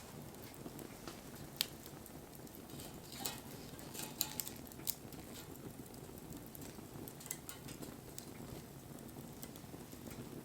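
Wood bonfire burning with a steady low rush, broken by sharp crackles and pops. The loudest pop comes about a second and a half in, and a cluster of them falls around four to five seconds in.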